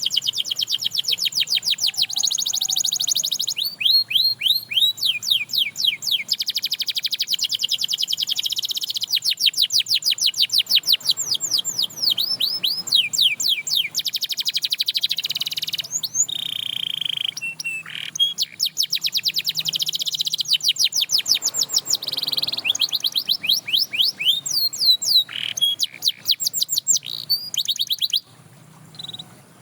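Domestic canary singing a long song of fast trills, each a rapid run of repeated sweeping notes, one roll after another with brief changes of tempo; the song stops shortly before the end.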